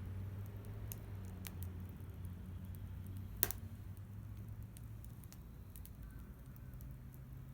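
Wood fire crackling faintly, with scattered small pops and one sharper pop about three and a half seconds in, over a low steady rumble.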